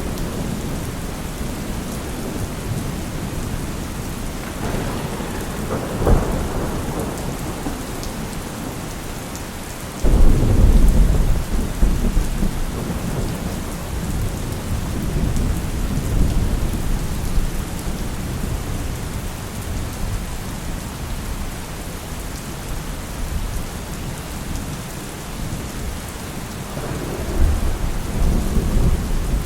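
Heavy rain falling steadily as a constant hiss, with thunder: a sharp crack about six seconds in, a loud rumble that breaks suddenly about ten seconds in and rolls on for several seconds, and another rumble near the end.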